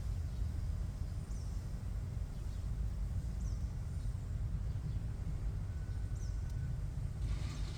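Steady low rumble throughout, with three faint, short, high chirps from a small bird, each falling in pitch and about two seconds apart. A brief hiss comes near the end.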